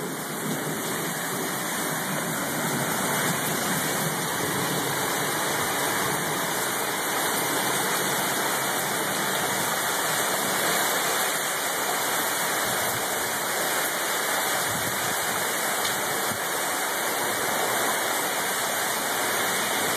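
Heavy tropical-storm rain: a steady, even rush of downpour that does not let up.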